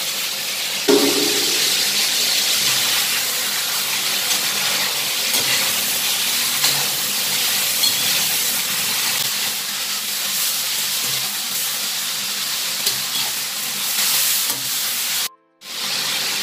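Chicken pieces frying in more than a cup of hot oil in an iron karahi: a steady sizzle, with faint scrapes and taps from a metal spatula stirring them. The sound cuts out abruptly for a moment near the end.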